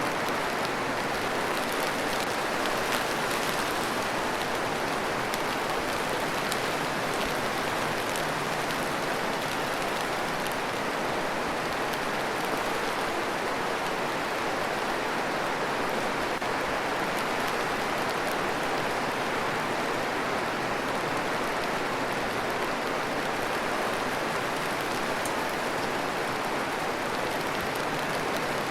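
Steady rain: a dense, even hiss of falling rain with scattered individual drops ticking through it.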